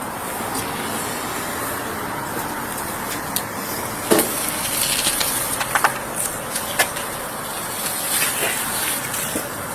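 Steady hiss of road and traffic noise, with a few short clicks and rustles a little past the middle.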